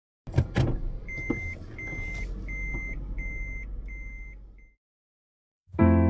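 Inside a car, a couple of sharp knocks, then a car's warning chime beeping about five times, roughly every 0.7 s, over a low rumble. The sound cuts off suddenly.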